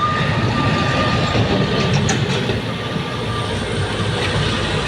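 Old truck's engine running hard on a steep climb: a loud, rough, steady rumble with a thin high whine that breaks off and returns.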